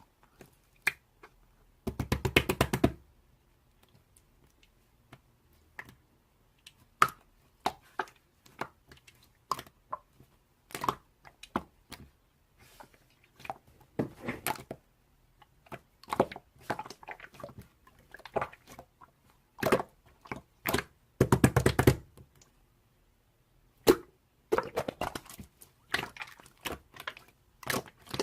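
Scattered sharp clicks and taps, with two short bursts of rapid clicking.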